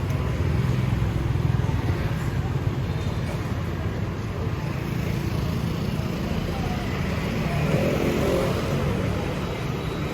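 City street traffic: motorbikes and cars passing with a steady engine rumble and tyre noise. One passes louder about eight seconds in.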